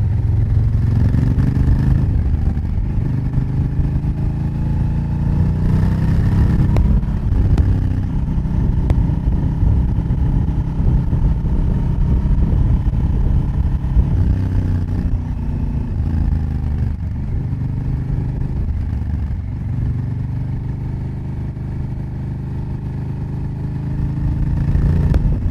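Honda Africa Twin CRF1000L's parallel-twin engine and exhaust heard close to the exhaust pipe while riding, the engine pitch rising and falling repeatedly as the bike accelerates and eases off.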